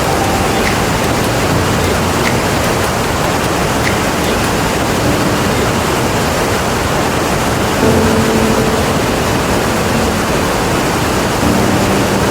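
Iguazu Falls: a steady, dense rush of falling water, loud and unbroken. A brief low hum rises over it about eight seconds in and again near the end.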